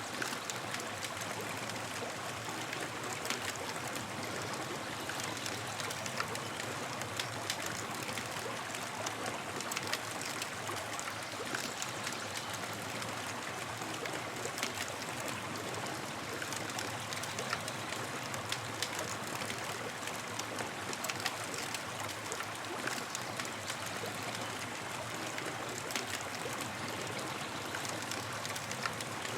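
Campfire burning: a steady hiss with scattered sharp crackles and pops.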